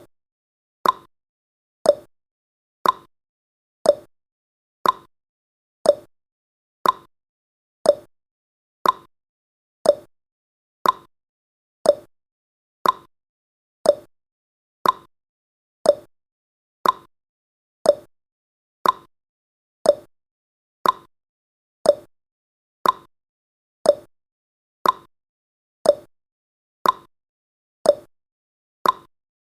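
Countdown timer's tick sound effect: a short, mid-pitched tick exactly once every second, evenly spaced, marking each second counted down.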